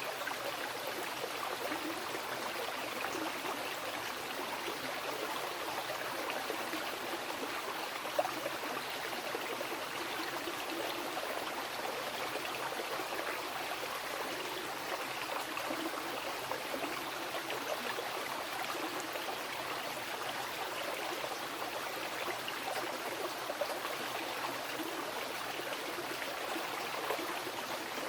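Wild mountain river flowing over rocks: a steady rush of water, with a couple of brief louder splashes standing out.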